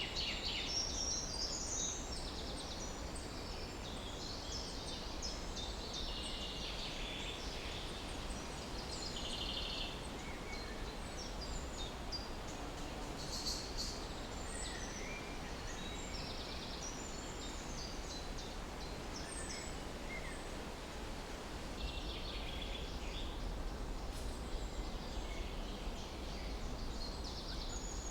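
Several songbirds chirping and trilling in short bursts, clustered at the start, in the middle and near the end, over a steady low rumble.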